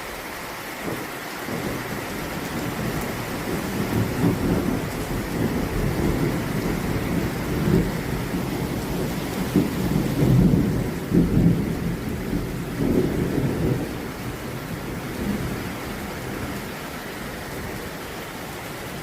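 Heavy rain falling steadily, with a long rolling peal of thunder that builds from about a second in, swells to its loudest in several surges past the middle, and dies away near the end.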